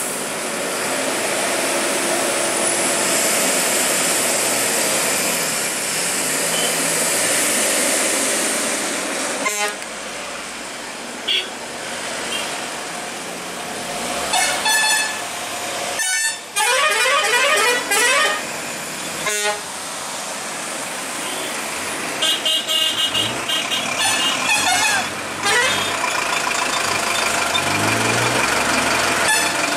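Heavy trucks running with horns honking repeatedly, some in rapid patterned multi-tone sequences. The sound breaks off abruptly a few times.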